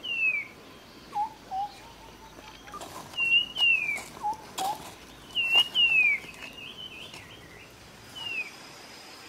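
Forest birds calling: short low whistled notes and higher down-slurred whistles, repeated several times in a recurring phrase, with a few faint clicks between.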